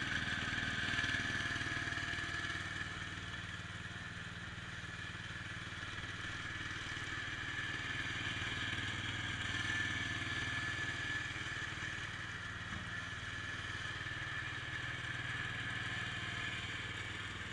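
IH Cub Cadet 147 garden tractor's single-cylinder Kohler engine running steadily, its loudness easing off a little and building again a couple of times.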